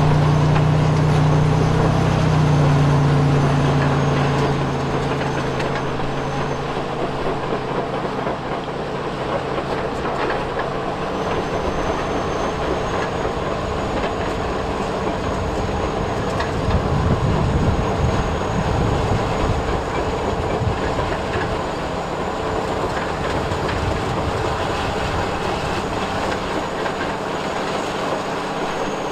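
Electric gear motors and plastic tracks of remote-control construction vehicles running. A strong motor hum in the first few seconds fades into a steady gear-and-track rattle with a thin high whine, which gets louder for a few seconds in the middle.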